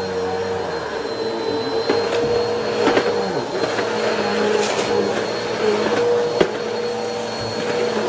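Bissell Powerforce Helix Turbo upright vacuum running steadily on carpet, its motor holding an even hum with a high whine, with a few sharp clicks along the way.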